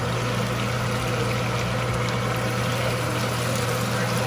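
Chicken thighs simmering in a pan of white wine and lemon juice, with a steady sizzling and bubbling over a constant low hum.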